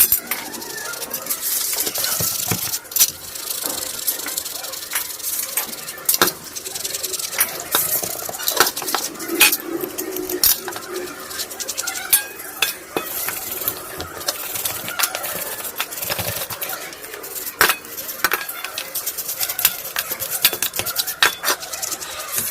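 Car AC compressor parts being scrubbed and scraped during rust removal: a steady scratchy hiss broken by frequent sharp metal-on-metal clinks.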